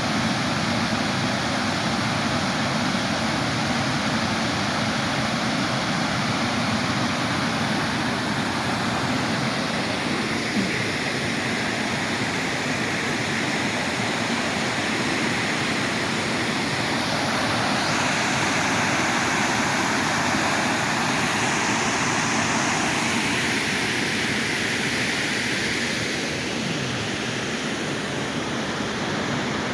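Waterfall's water rushing steadily, with its tone shifting a little a few times.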